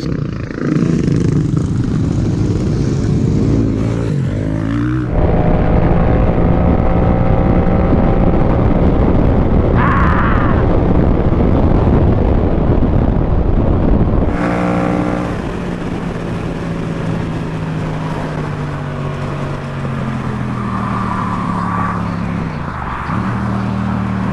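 Motorcycle engine running under way, its pitch rising and falling as the throttle changes, over a steady rushing noise. The sound changes abruptly twice, about five seconds in and again about fourteen seconds in.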